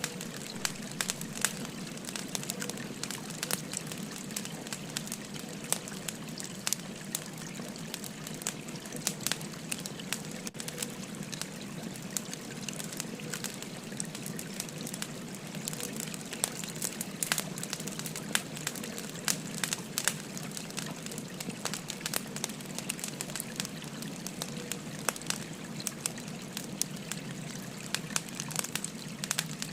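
Wood fire crackling with frequent sharp pops and snaps, over the steady rush of a babbling river.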